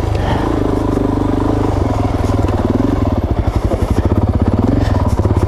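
Suzuki DRZ400S's single-cylinder four-stroke engine running at low revs, its individual firing pulses becoming distinct about three seconds in.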